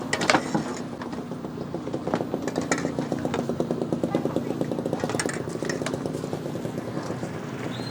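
A small engine running steadily with a fast, even beat, with a few sharp clinks of kitchen utensils over it.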